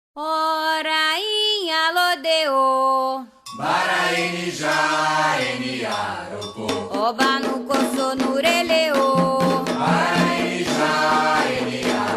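Candomblé Ketu song for Xangô in call and response. A single lead voice sings a short phrase alone, then about three and a half seconds in a chorus takes it up over drums.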